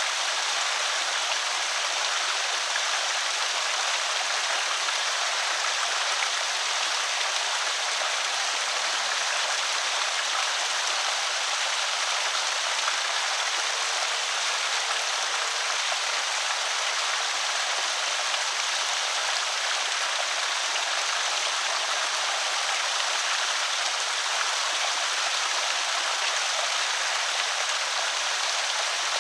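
Water pouring over a small creek spillway: a steady, even rush and splash.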